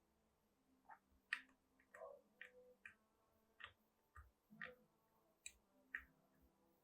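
Faint, irregular small scrapes and clicks of a hand tool picking and scraping old epoxy out of the cracks in a wooden rifle stock, about a dozen short strokes.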